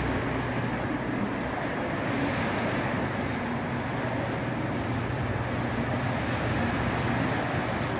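Steady low rumble and hum of model trains running on a miniature railroad layout, over general room noise.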